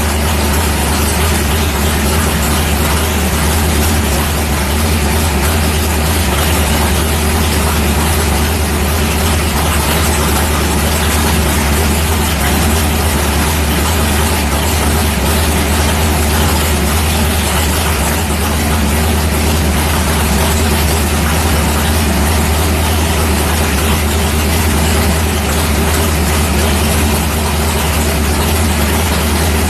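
Big-block Ford V8 in a 1964 Fairlane with a Holley 1050 Dominator carburetor idling steadily, warming up after a carburetor jet change.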